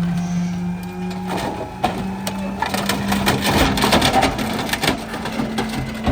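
Rear-loader garbage truck compacting bulk trash: the packer blade crushes the load, and from about a second and a half in it cracks and snaps repeatedly as items break, over the steady hum of the truck's engine.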